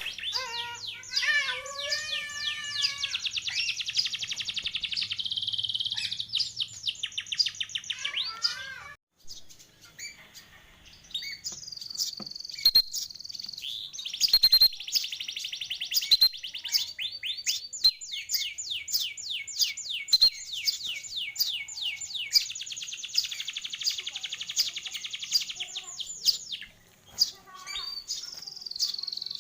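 Canary singing, long runs of fast rolling trills, with a short break about nine seconds in.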